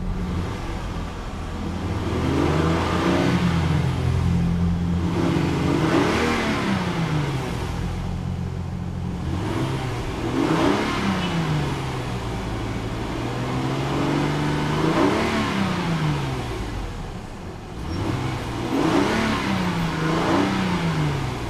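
A 2001 Lexus GS300's 3.0-litre inline six-cylinder engine, with variable valve timing, is revved about five times. The pitch climbs and falls back to idle each time, with short stretches of steady idle in between.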